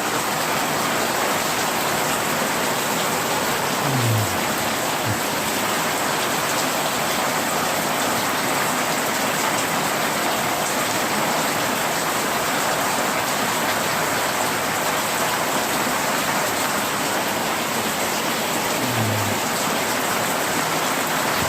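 Heavy rain pouring down steadily, an even, unbroken hiss of downpour hitting the ground and surfaces.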